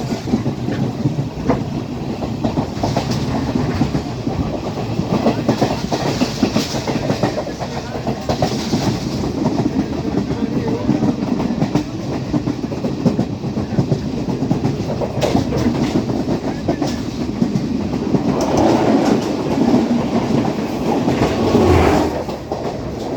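Class S12 train running along the line: a steady rumble and rattle with the wheels clicking over the rails. It grows louder about eighteen seconds in and eases off near the end.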